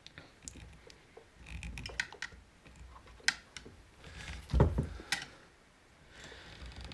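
Scattered light clicks and taps of chainsaw parts and wiring being handled, with one louder dull thump about four and a half seconds in.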